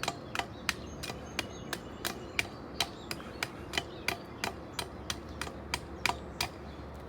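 A Damascus steel bowie knife chopping into a wooden branch in quick, even strokes, about three a second, that stop near the end.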